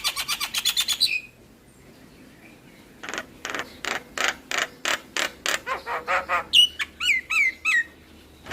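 Javan myna singing: a fast run of harsh clicking notes, a pause of about two seconds, then a rapid series of rasping notes that ends in several short descending whistles.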